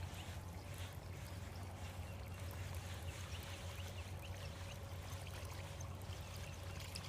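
Faint trickling, gurgling water over a steady low hum.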